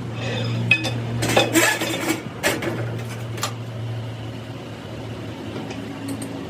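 Metal parts clanking and clinking against each other several times in the first half, over a steady low machine hum.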